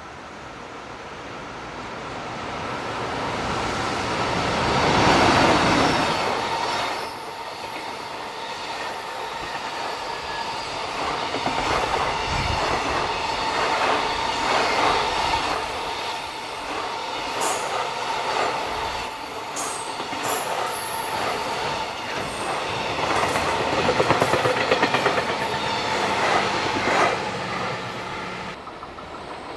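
Freight train passing on the rails. It grows louder over the first five seconds, then a long run of wagons clatters by with a steady high wheel squeal. The sound cuts off suddenly near the end.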